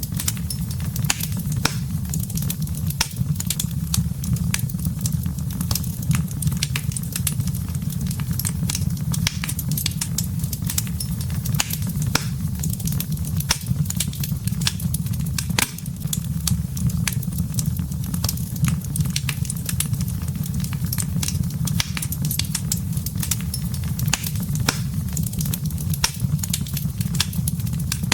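Wood fire crackling, with many irregular sharp snaps over a steady low rumble.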